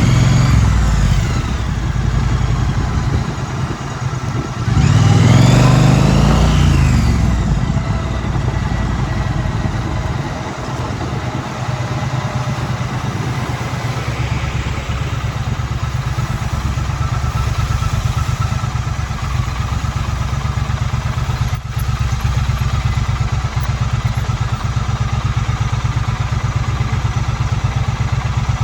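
2016 Triumph Street Twin's 900 cc parallel-twin engine, slowing at the start, revving up briefly about five seconds in and easing off, then running steadily at low revs with an even pulse for the rest.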